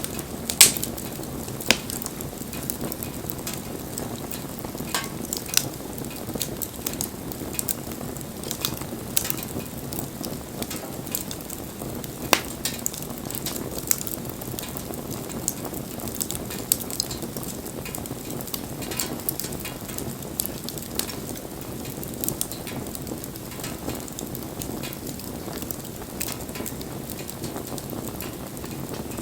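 Wood fire burning, with a steady low hiss of flames and frequent sharp crackles and pops, the loudest just under a second in.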